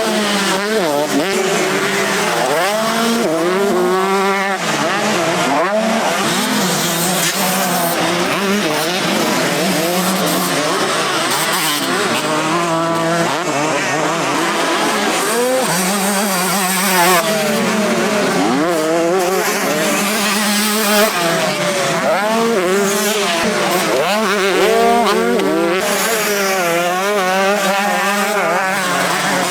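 Several 125cc two-stroke motocross bikes racing, their engines revving up and dropping back again and again as they pass, several at once.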